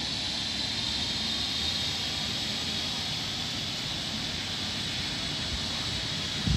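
Rescue helicopter's turbine engine and rotor running steadily, with a strong high whine and a fainter, even higher tone slowly rising. A brief knock comes just before the end.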